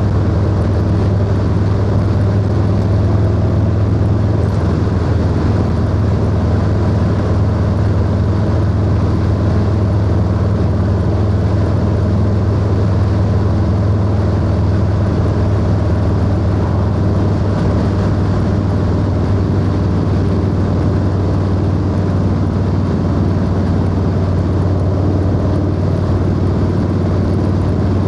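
Harley-Davidson Low Rider S (FXLRS) V-twin with a 2-into-1 exhaust, running loud and steady at a constant cruising speed with no revving or gear changes.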